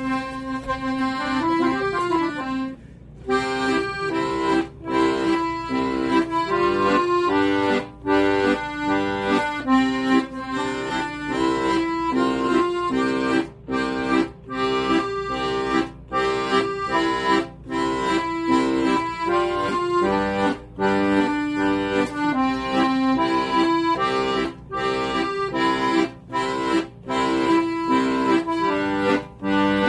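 Accordion playing a melody in short, evenly paced notes over a steady left-hand bass accompaniment, with a brief break about three seconds in.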